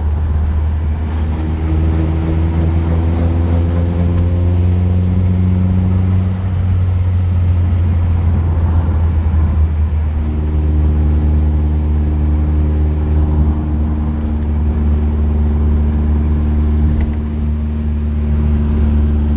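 Car engine and road noise heard from inside a moving car's cabin: a heavy, steady low drone throughout. The engine note climbs slowly over the first six seconds or so as the car accelerates, drops away, then holds at a steady pitch from about ten seconds in as it cruises.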